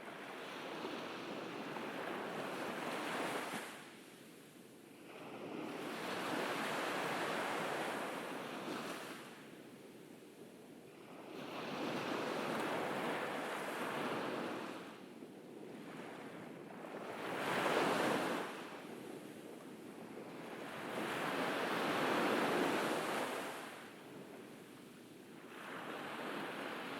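Ocean waves breaking on a beach, each surge swelling and washing back every four to six seconds.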